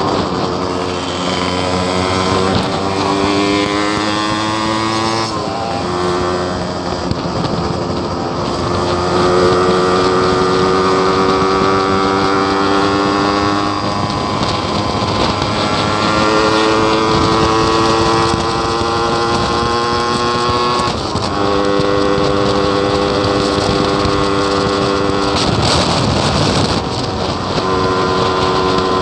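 Yamaha RX-King's single-cylinder two-stroke engine riding under power, its pitch climbing slowly in each gear and dropping four times at upshifts. The owner calls the bike sluggish.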